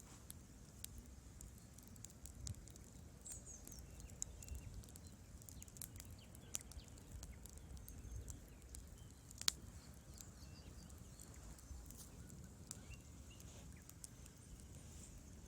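Wood fire crackling faintly, with irregular sharp pops over a low rumble of burning; one louder pop about nine and a half seconds in.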